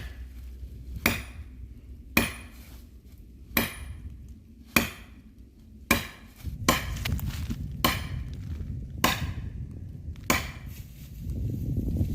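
Heavy blows struck on oak wood, about nine sharp strikes roughly a second apart, like chopping or driving a tool into a log.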